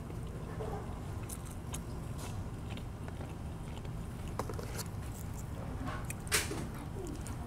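Chewing and mouth sounds of someone eating a Krystal hamburger, with scattered small clicks and a sharper click about six seconds in, over a steady low hum.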